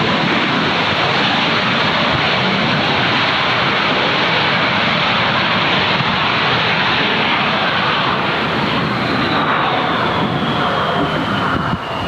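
Loud, steady engine noise of a jet airliner close by, with a whine that slowly falls in pitch over the last few seconds.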